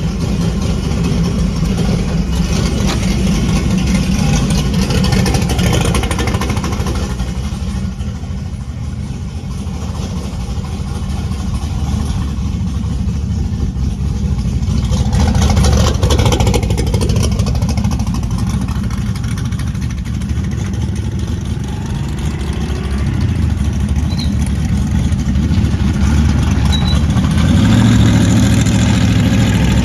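Turbocharged, carbureted LS V8 engine of a drag truck running at low revs after a fresh start, its low rumble swelling a little about halfway through and again near the end.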